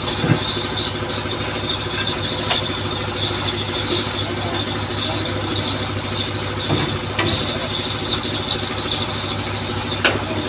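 Tugboat's machinery running steadily: a low hum with a constant high whine over it. A few sharp clicks come through, about two, seven and ten seconds in.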